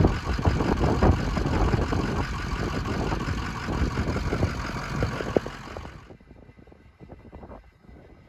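Heavy wind buffeting the microphone over a vehicle engine running, then cutting off suddenly about six seconds in, leaving only faint wind.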